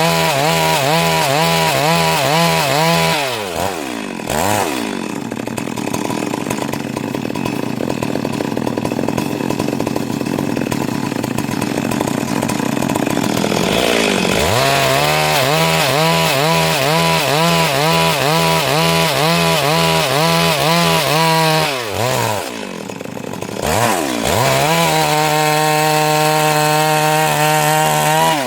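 Stihl MS 382 two-stroke chainsaw running at high revs while ripping a Siris log into boards, its pitch wavering under load. The revs dip sharply twice, and the engine runs steadier and higher near the end.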